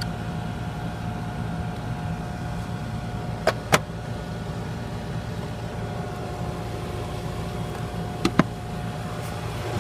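A steady mechanical hum with a constant tone, broken by two quick pairs of sharp clicks, about 3.5 and 8.3 seconds in.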